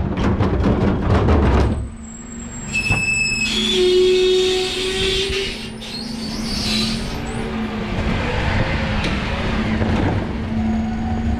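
Dennis Elite 6 refuse truck at work: loud, dense clattering for the first couple of seconds, then a steady low drone with short whining tones over it.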